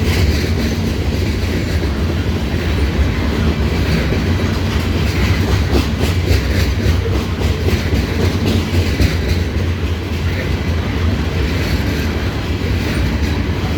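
Loaded stone hopper cars of a CSX rock train rolling past: a steady low rumble with repeated clacks as the wheels cross rail joints.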